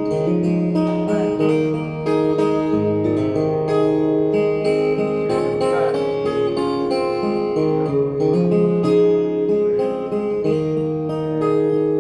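Acoustic guitar strumming chords, an instrumental passage of a song, with the chords changing every second or two.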